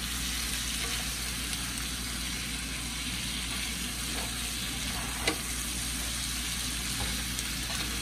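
Green beans sizzling steadily as they sauté in melted butter in a skillet, stirred with a spatula, with a sharp tap of the spatula against the pan about five seconds in.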